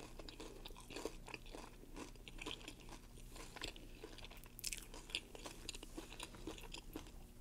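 Close-miked chewing of crunchy tortilla chips: a run of faint, quick crunches and mouth clicks.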